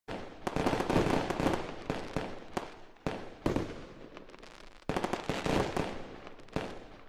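Fireworks going off: a dense run of bangs and crackling pops that starts suddenly, eases off about four seconds in, then comes back in a fresh volley near five seconds.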